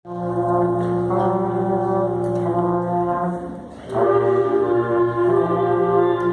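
Middle school ensemble playing slow, held chords. The sound thins briefly a little past three seconds in, then a new chord swells in.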